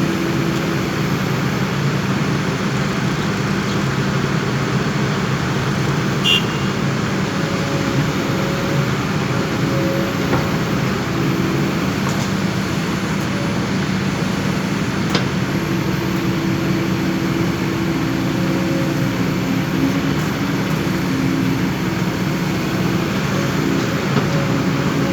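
Heavy machine's diesel engine running steadily at a constant speed, with a couple of brief clicks or knocks, one about six seconds in and one about fifteen seconds in.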